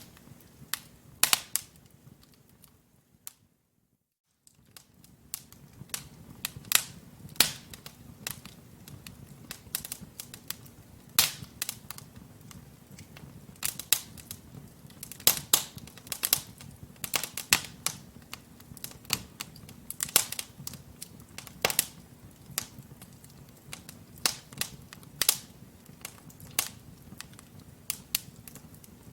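Wood fire in a fireplace crackling: burning logs giving irregular sharp pops and snaps over a low steady hiss of the flames. The sound drops out completely for under a second about four seconds in.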